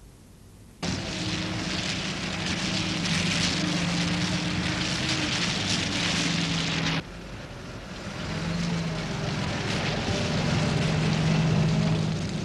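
Vintage Rolls-Royce open tourer driving, its engine running steadily under a loud rush of wind and road noise that starts suddenly about a second in. About seven seconds in the rush drops away and the engine carries on more quietly, then swells a little.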